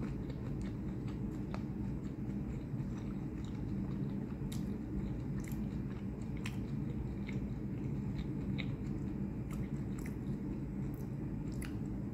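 Close-miked chewing and biting of cooked shrimp, heard as many small scattered mouth clicks over a steady low hum.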